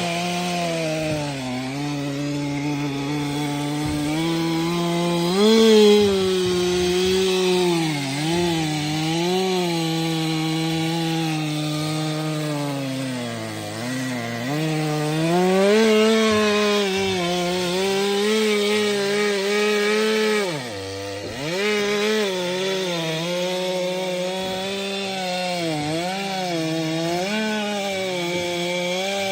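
Stihl MS 462 C-M two-stroke chainsaw running at full throttle through firewood, the chain cutting wood throughout. The engine pitch keeps sagging under the load of the cut and picking back up, and dips sharply about two-thirds of the way through before revving back up.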